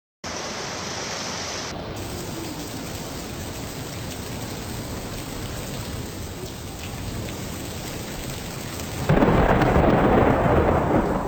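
Steady heavy rain, then about nine seconds in a sudden, much louder rumble of thunder that eases off near the end.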